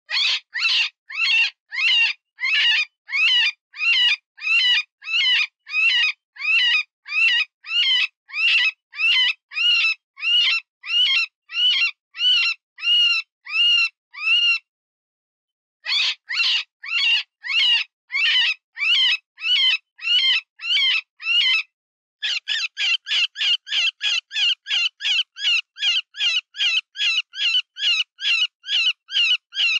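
Cottontail rabbit distress call, the wounded-rabbit squeal used as a predator lure: high, wavering squeals repeated about twice a second. The squeals break off for about a second past the middle, then resume, and near the end turn shorter and quicker, about three a second.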